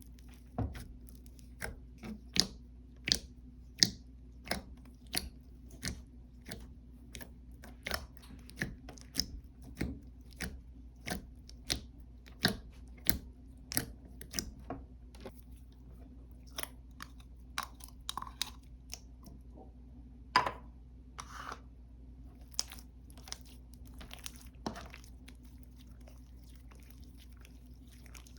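Slime being squished and pressed by hand, giving sharp popping clicks about one or two a second. The clicks thin out after about fifteen seconds and stop shortly before the end, leaving a low steady hum.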